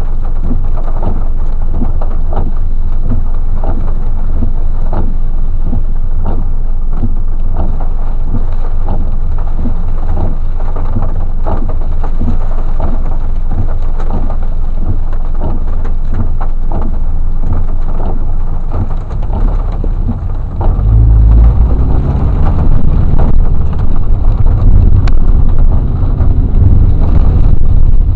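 Heavy rain falling, with many sharp drop hits. About two-thirds of the way through, a louder low rumble rises and takes over.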